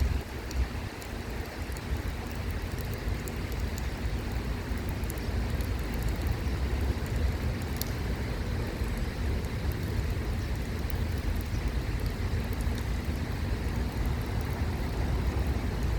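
Steady outdoor noise: an even rushing hiss over a deep low rumble, with a few faint ticks.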